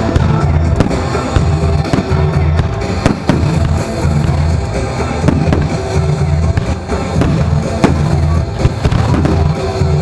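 Fireworks going off in quick succession, many sharp bangs and crackles, over loud music with a pulsing heavy bass beat.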